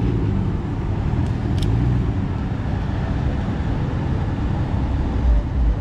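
Low, steady rumble of car engines running, with one short sharp tick about a second and a half in.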